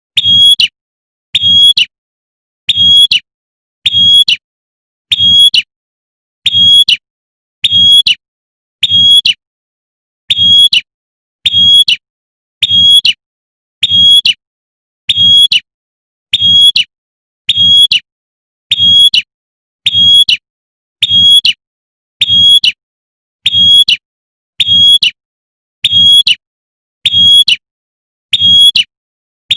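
Female prinia (prenjak) giving its sharp 'tembakan' call, one short high note repeated about once a second at an even pace, each with a faint low thump beneath it. This is the female's call to a male.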